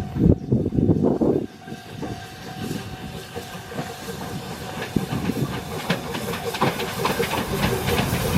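Steam train passing: the C58 steam locomotive's exhaust chuffs in the first second or so, then steam hissing and the clatter of wheels over rail joints, growing louder toward the end.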